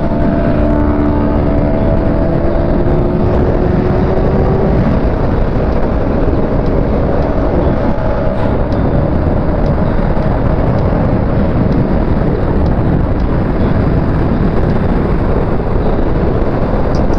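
Sport bike riding at speed: a loud, steady wind rush over the microphone covers the engine, whose note rises gently for the first few seconds as the bike accelerates.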